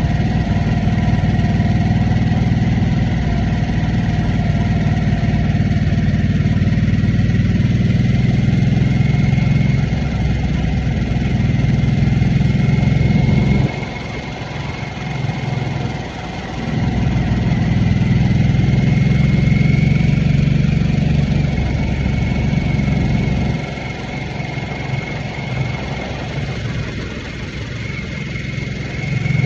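2023 Harley-Davidson Nightster's 975 cc Revolution Max V-twin running under throttle while riding. The throttle eases off twice, about 14 seconds in and again about 24 seconds in, and the engine sound drops, then comes back up after the first lull.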